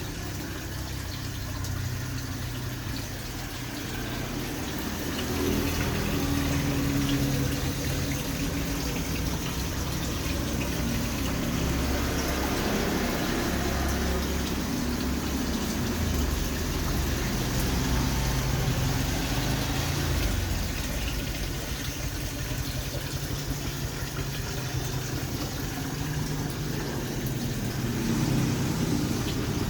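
Water flowing and splashing in a koi pond, over a steady low rumble.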